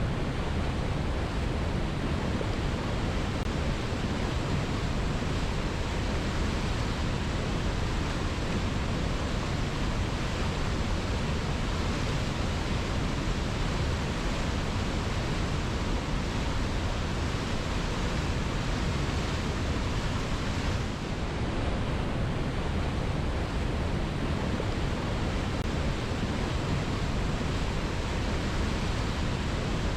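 Waterfall: a steady, unbroken rush of falling water, fullest in the low range.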